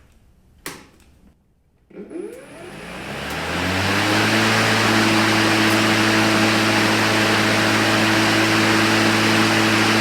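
Two clicks, then the Senix LPPX5-M's 58-volt brushless electric motor and blade spin up in a smooth rising whine over about two seconds, with no pull-start or engine catching. It then runs at a steady speed with an even hum and a rush of air.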